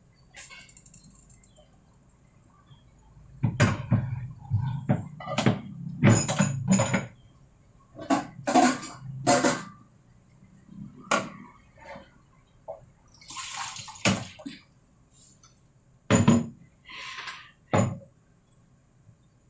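Kitchen utensils and cookware clattering: a string of sharp knocks and clinks against pots and dishes, with two brief rushing noises near the middle and toward the end.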